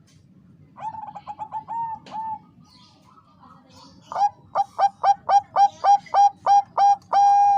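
Bangkok-type zebra dove (perkutut) cooing. A short run of quick clipped coos comes first, then a pause, then a louder run of about a dozen evenly spaced coos at about four a second, ending in one long held note.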